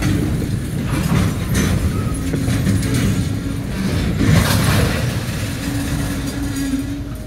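Freight train of tank cars rolling slowly past: a steady low rumble of steel wheels on rail, with a few brief clanks and surges.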